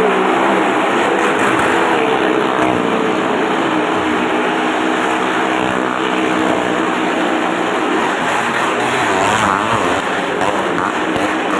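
Motorcycle engines running at steady high revs as they circle the wall of a well-of-death pit, the pitch wavering a little as the throttle changes.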